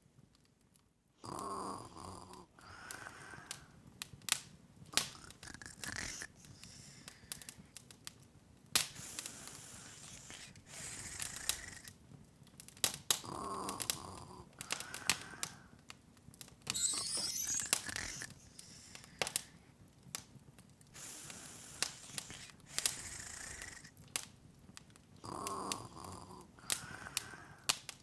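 Open wood fire crackling, with irregular sharp pops and snaps. A soft breathy sound comes back about every twelve seconds, and a short rising shimmer sounds about seventeen seconds in.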